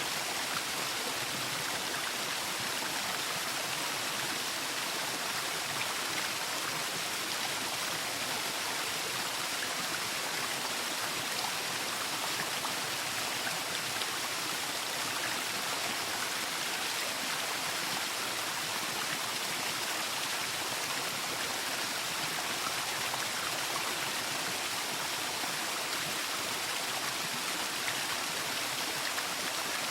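Waterfall: a steady, even rush of falling water, with no changes or distinct splashes.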